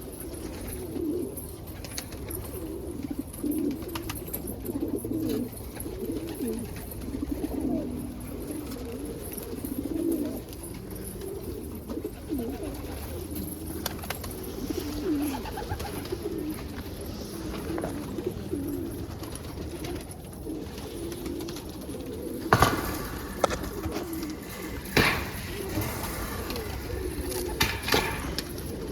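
A loft of domestic pigeons cooing continuously, many birds overlapping. A few sharp knocks or clatters break in near the end, the loudest about three quarters of the way through.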